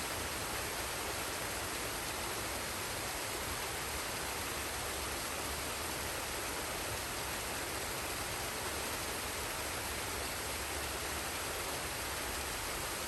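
Forest waterfall and stream: water falling and rushing in a steady, unbroken hiss.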